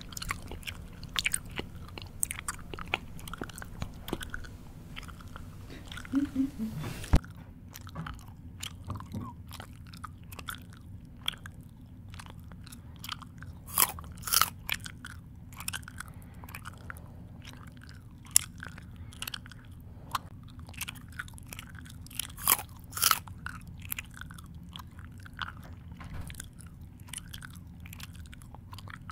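A person chewing food with the mouth close to the microphone: irregular crisp crunches and mouth clicks, with a few louder bites in clusters.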